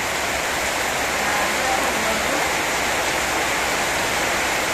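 Heavy rain of a rainstorm falling steadily, an even hiss of water.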